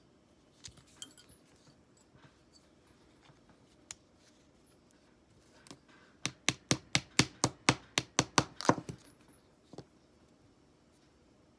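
A quick, even run of about fifteen sharp clicks or taps, some five a second, with a few scattered light clicks before it and one more after it.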